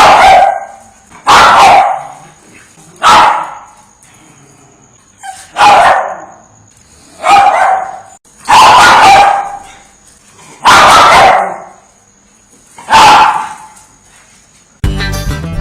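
A dog barking loudly, single barks about every one and a half to two seconds, eight in all. Guitar music starts near the end.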